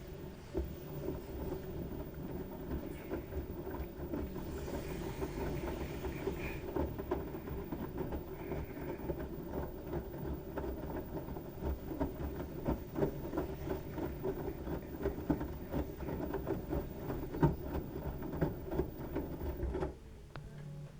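LG washing machine running with a load of wet towels: a steady rumble from the turning drum with many small irregular knocks. It cuts off abruptly about a second before the end.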